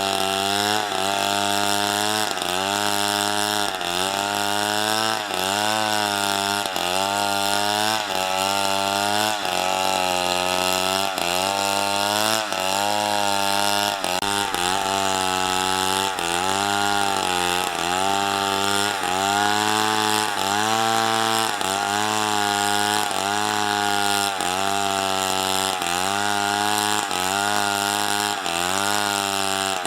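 Chainsaw running at high revs while cutting into wood, its engine pitch sagging and recovering about once a second as the chain bites and eases off under load.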